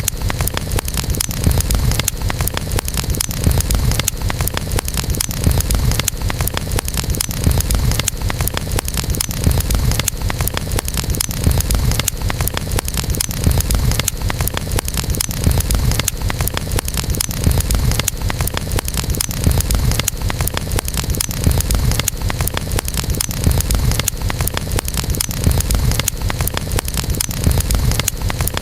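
Wood fire burning steadily, with dense continuous crackling and popping over a deep, steady rumble of the flames.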